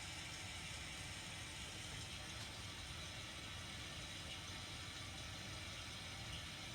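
A vehicle engine idling steadily, with a low rumble and a faint hiss.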